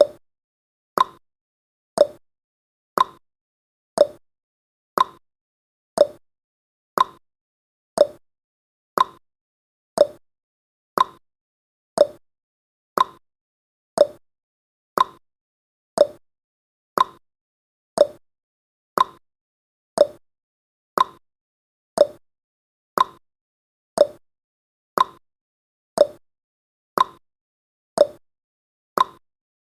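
Countdown timer's clock-tick sound effect, one short tick each second.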